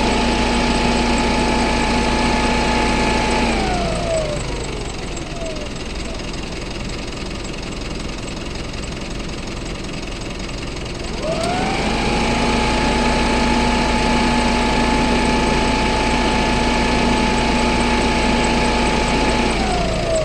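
Air conditioner fan motor running with a steady whine, then winding down in pitch a few seconds in; after several seconds slowed, it spins back up to speed about halfway through, runs steadily, and starts winding down again near the end, over a continuous low hum.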